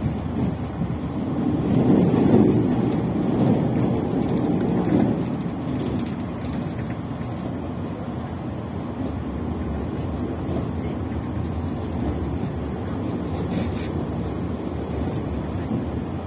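Running noise of a tilting electric train heard from inside the carriage: a steady rumble of wheels on the rails, louder in the first few seconds and then settling to an even level.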